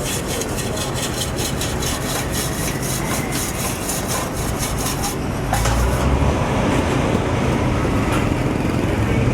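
Quick, evenly repeated rasping strokes of a hand tool working metal, typical of filing or scraping during radiator repair. About five seconds in the strokes fade under a low engine-like rumble.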